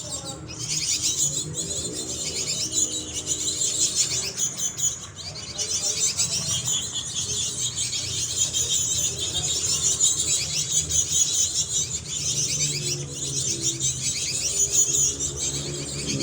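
Cinereous tit (gelatik batu) singing, an almost unbroken stream of rapid, high-pitched chirping notes.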